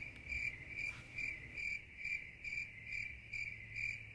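Cricket chirping sound effect: a steady high chirp repeating evenly, about two and a half times a second.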